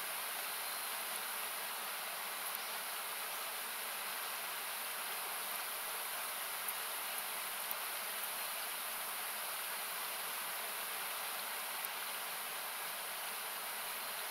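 Steady hiss of a nearby river, thinned by equalizing so it sounds like noise, with a few faint crackles from a wood campfire.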